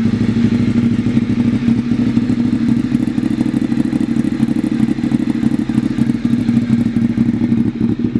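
Ducati 848 EVO Corse's L-twin engine idling steadily through a full Leo Vince carbon-fibre exhaust system, a loud, even engine note.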